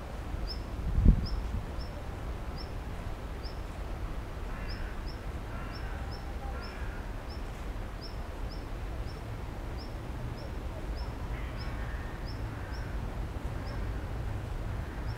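A bird's short high chirps repeated about twice a second over a low wind rumble on the microphone, with fainter calls from other birds; a single thump about a second in.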